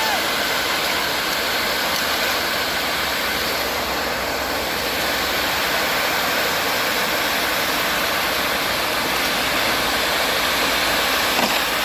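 Concrete mixer truck running steadily, its engine and the noise of the work blending into an even, unbroken rush.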